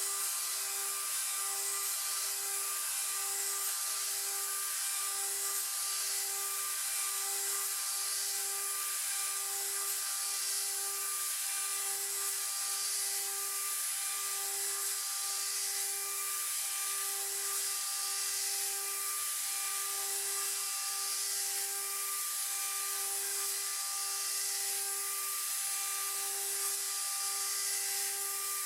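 CNC router spindle at 24,000 RPM driving a 6 mm three-flute flat end mill through aluminum on an adaptive clearing path, roughing a 10 mm deep pocket. It makes a steady high whine over a hiss, and the tone pulses about once a second as the cutter's engagement cycles around the pocket.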